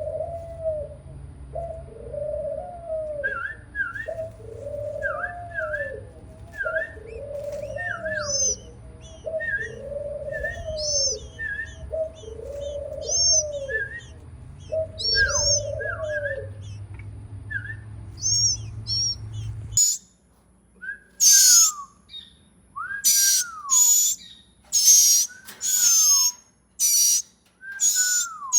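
Birds calling: a low cooing note repeated roughly once a second over scattered higher chirps, then, after an abrupt change, loud sharp chirps each with a falling whistled note, repeated about once a second.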